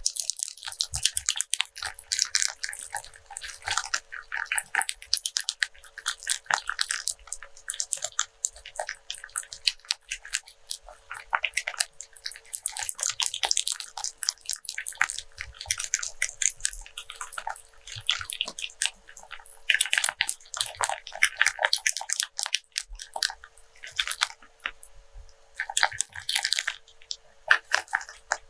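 Rope being handled, rubbed and scratched close to the microphone, a dense crackling of many small clicks that comes in uneven clusters.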